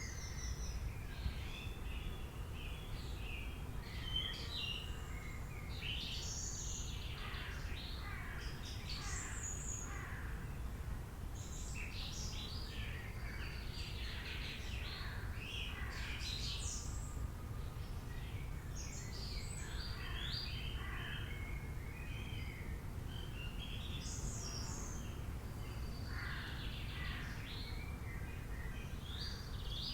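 Several birds chirping and calling, dense, quick high notes and downward sweeps overlapping throughout, over a steady low rumble.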